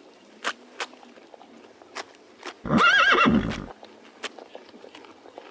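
A horse whinnying once, a call of about a second with a wavering, shaking pitch, a little before the middle. Around it come scattered short, crisp snaps of horses tearing grass as they graze.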